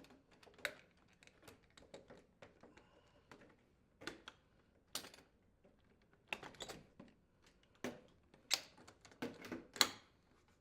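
Light, irregular clicks and knocks of a dishwasher's outer door panel being handled and fitted onto the door, a few sharper knocks near the end.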